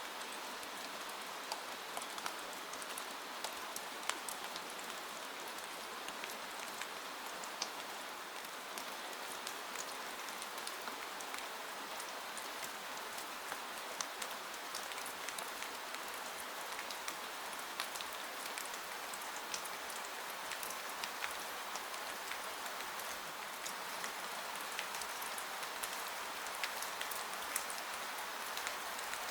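Steady rain with many small drops pattering on a surface, an even hiss with scattered fine drop ticks.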